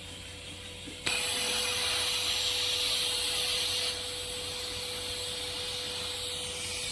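A welding arc struck about a second in, then burning with a steady hiss over the hum of the welding machine; the hiss drops a little in level partway through.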